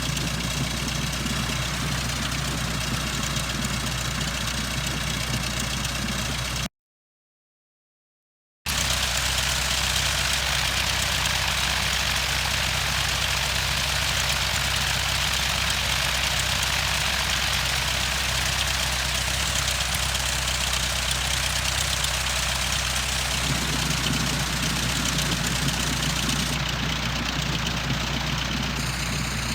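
Cessna 152's four-cylinder Lycoming O-235 engine running steadily at idle. About seven seconds in the sound cuts out completely for about two seconds, then the engine resumes with more hiss.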